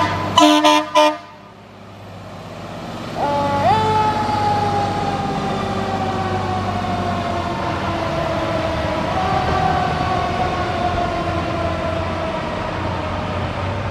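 A fire truck responding: three short horn blasts in the first second, then from about three seconds in a siren winding up and sliding slowly down in pitch, rising again about nine seconds in, over the truck's engine.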